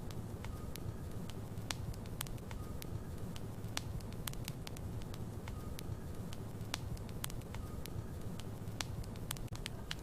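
Wood logs burning in a fireplace: steady low fire rumble with frequent irregular sharp crackles and pops, and a faint short whistle every couple of seconds.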